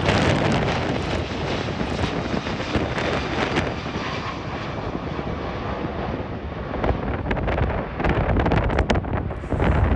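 Airbus A330 jet engines rumbling as the airliner climbs away, the noise easing over the first few seconds, with gusts of wind buffeting the microphone in the second half.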